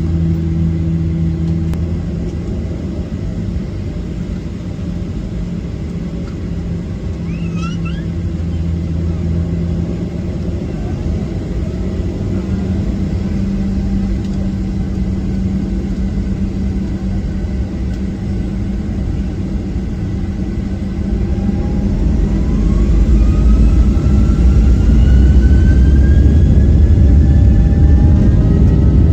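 Cabin noise of a Boeing 737-800 with its CFM56-7B engines: a steady low rumble while rolling, then about 21 seconds in the engines spool up to takeoff thrust with a rising whine and the rumble grows louder and holds.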